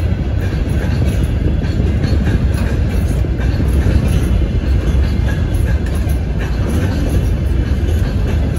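Freight train rolling along the track: a loud, steady rumble of wheels on rails with faint clicks running through it.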